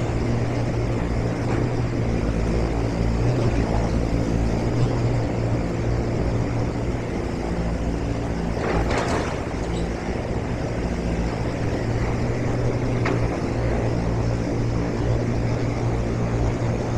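An engine running steadily with a low drone, with a short rush of noise about nine seconds in.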